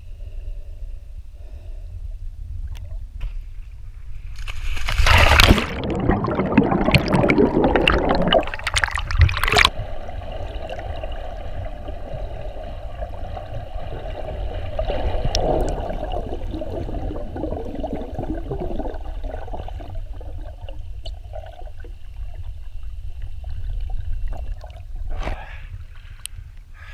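Water heard through an underwater camera while swimming: a muffled, steady low rumble of moving water, with a loud stretch of splashing and bubbling from about five to ten seconds in.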